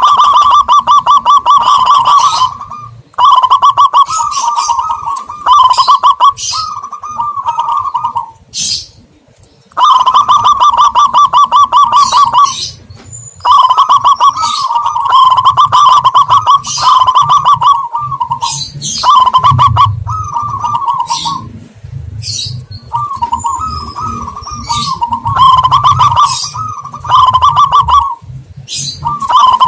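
Dove lure recording of perkutut (zebra dove) and terkukur (spotted dove) calls, used to draw in wild doves: loud runs of rapid, rolling cooing notes, each a second or few long, repeated with short gaps, with high chirps above them.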